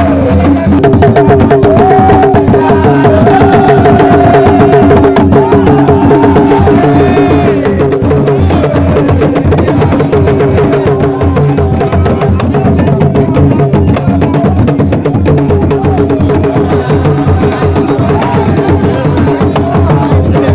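Loud percussion music: drums with fast, dense clacking strikes and a pitched melodic line over them.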